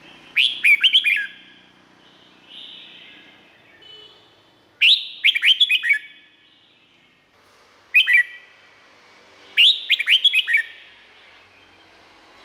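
Red-whiskered bulbul singing: four short, loud phrases of quick notes falling in pitch, with fainter calls between them.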